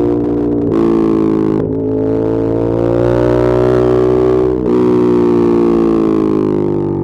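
Ducati Monster 1200S's L-twin engine and exhaust under way, with brief breaks in the note about a second, two seconds and five seconds in, as at gear changes or throttle changes. The pitch climbs steadily between the second and third break, then eases down slowly.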